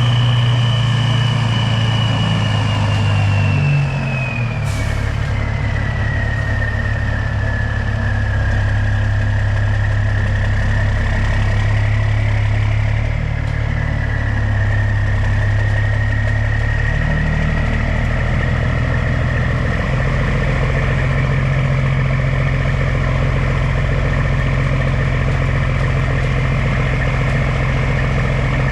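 Heavy diesel engine running steadily, with a high whine that drops in pitch over the first several seconds and then holds, and small shifts in the engine note about 4, 13 and 20 seconds in.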